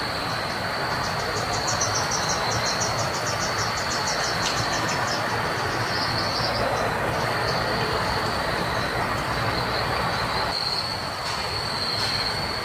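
Steady rushing noise of flowing water under a constant high-pitched insect drone. For the first few seconds a rapid high chirping trill of about eight pulses a second runs over it.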